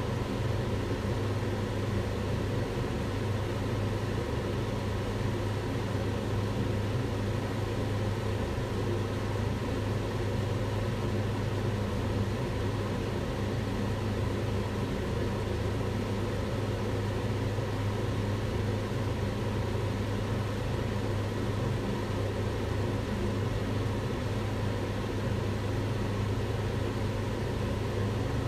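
Kitchen extractor hood running steadily: an even fan rush with a low motor hum.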